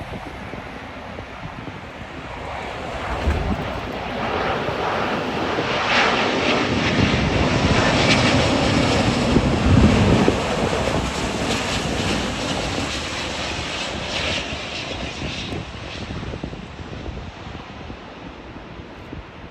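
Jet airliner passing by, its engine noise swelling over several seconds to a peak about halfway through, then fading away.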